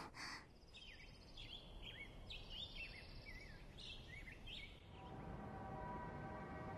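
Faint birds chirping, a scatter of short quick calls. About five seconds in, they give way to soft, steady held music tones.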